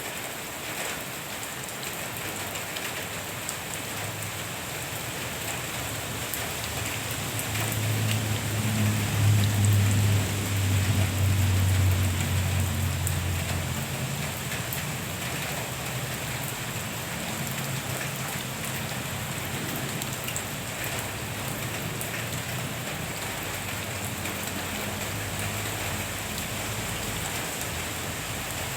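Steady rain falling and pattering on the garden. A low droning rumble swells between about 8 and 14 seconds in, the loudest part, then fades to a faint hum.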